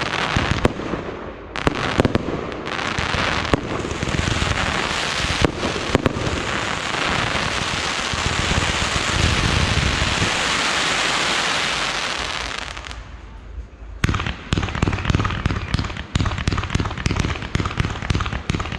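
Fireworks display: a few sharp bangs of bursting shells, then a long dense crackle that swells and dies away, followed near the end by a rapid run of pops and bangs.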